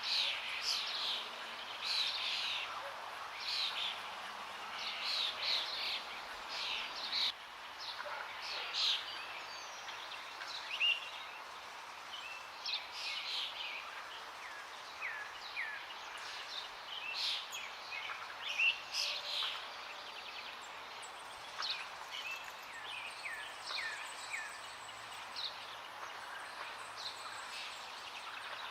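Several small songbirds chirping and trilling over the steady rush of running water. The calls come thick and fast at first and are sparser later on.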